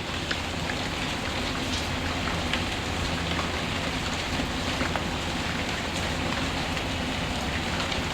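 Steady rain mixed with a crackling wood fire: an even hiss of rain with scattered sharp pops and crackles over a low rumble.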